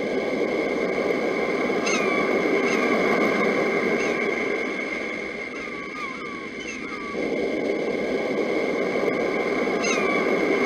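Sea waves washing in and out, fading about five seconds in and swelling again about two seconds later. Birds call over them with short, falling chirps every second or two, above a steady high hum.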